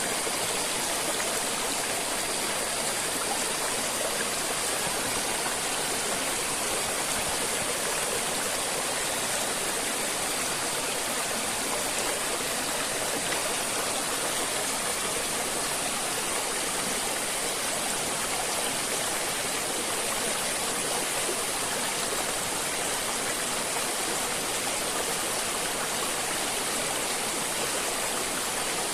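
River water flowing steadily over rocks, an even rushing sound with no breaks.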